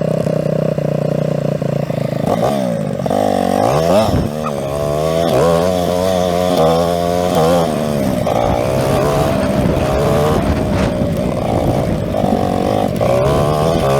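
Dirt bike engine running, steady at first, then revving up and down repeatedly from about two seconds in.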